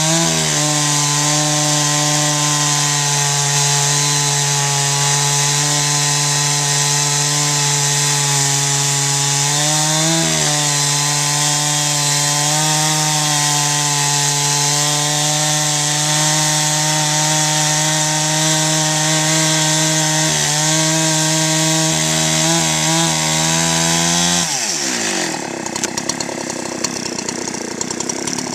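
Chainsaw on a Granberg G55 mini mill ripping lengthwise through a log at full throttle, engine pitch steady with brief dips as it loads. About 24 seconds in the throttle is released and the engine falls to idle.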